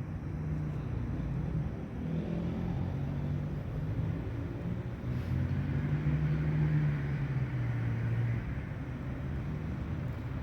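A motor vehicle's engine running, a low steady hum whose pitch drifts slowly up and down.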